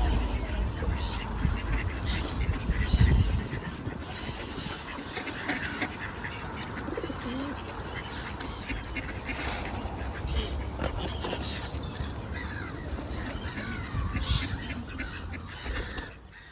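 Waterfowl, mute swans among them, giving short calls many times over, with a low rumble strongest in the first few seconds.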